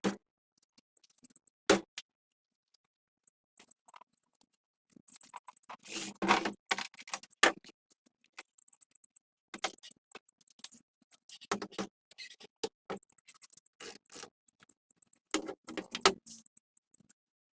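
Scattered clicks and short bursts of clattering, like tools and small metal parts being handled and set down during work on a generator; no engine running.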